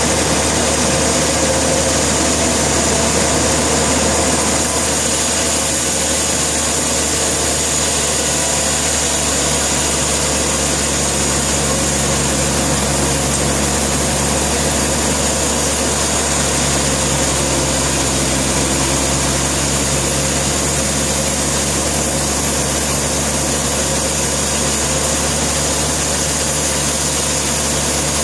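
Sawmill machinery running with a steady engine drone and no break in the sound.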